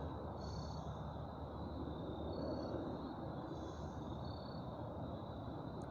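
Night insects singing: a steady high-pitched trill with short calls repeating about every two seconds, over a low steady rumble.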